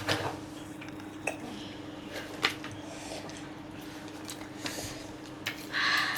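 Eating sounds: cutlery clicking against plates a few times, with scattered separate clinks, and a short breathy sound near the end.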